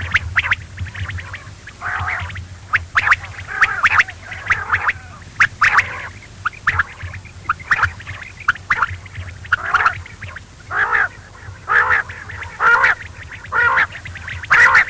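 Quail calling: short calls repeated about once a second, over a steady low hum.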